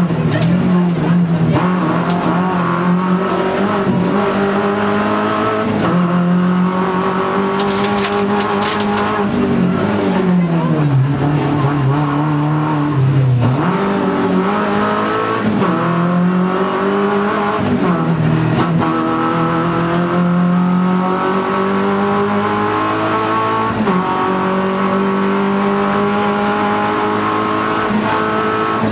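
Rally car engine heard from inside the cabin, driven hard: the revs climb through the gears and drop away for bends and shifts, with a deep slowdown about ten to thirteen seconds in before pulling up again. A few sharp clicks come about eight seconds in.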